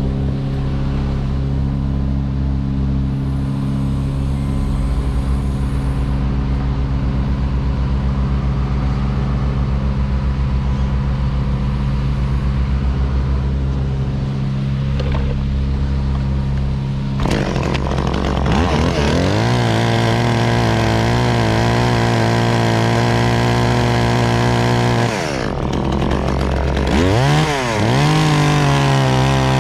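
A large engine drones steadily at a low pitch. About halfway through, a chainsaw revs up and runs at high revs, its pitch wavering as it cuts. It drops off briefly near the end and revs back up.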